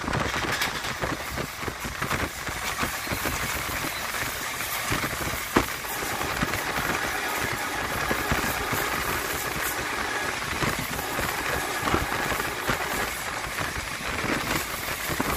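Indian Railways passenger train heard from on board an ICF coach hauled by a WDG3A diesel locomotive: a steady rumble and rattle, with a few sharp knocks, the loudest about five and a half seconds in.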